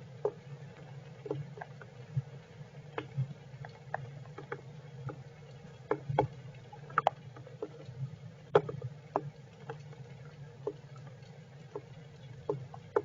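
Rain dripping onto a shelter: irregular sharp taps, about one or two a second and uneven in strength, over a steady low hum.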